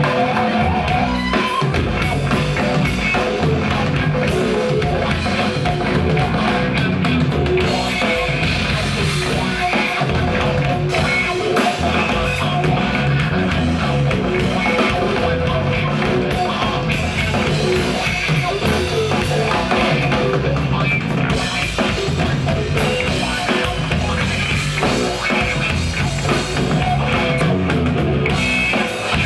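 A rock band playing live: drum kit, electric guitars and bass, with little or no singing.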